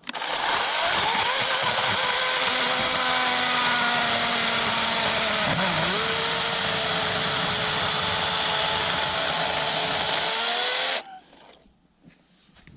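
Cordless 40-volt electric chainsaw running at full speed with a steady motor-and-chain whine, its pitch dipping briefly about halfway through, then shutting off suddenly near the end.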